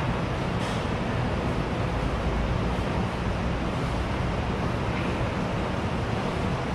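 School canteen ambience: a steady, dense hubbub of many voices blurred together in a large room. A faint click sounds about half a second in.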